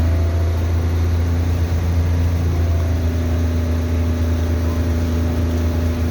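Passenger boat's inboard engine running steadily underway, a loud low drone with a steady hum above it.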